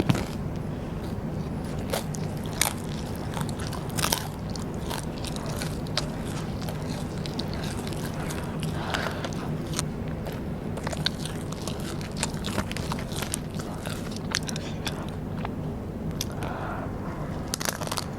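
Close-miked chewing of rice paper snacks, with many irregular crisp crunches and clicks of biting, over a steady low hum.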